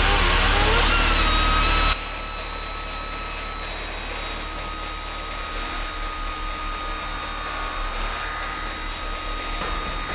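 Pneumatic angle grinder running at full speed, a loud hissing rush with a wavering whine, that cuts off abruptly about two seconds in, leaving a quieter steady hiss with a faint thin whine.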